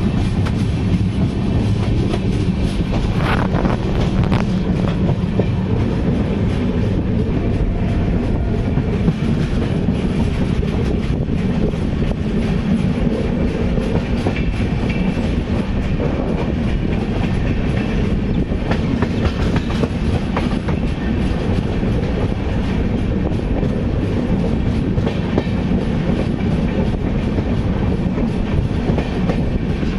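Indian passenger train running along the line, heard from inside a coach at the open window: a steady rumble with the clickety-clack of wheels over rail joints and points.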